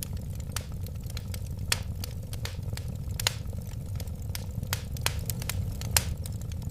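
Wood fire burning in a fireplace: a steady low rumble of flames with frequent irregular crackles and pops, a few sharper pops standing out.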